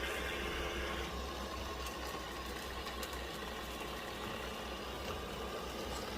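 Robot vacuum cleaner running with a steady motor and brush hum over a low pulsing rumble, as it drives back to its charging dock at the end of a cleaning run.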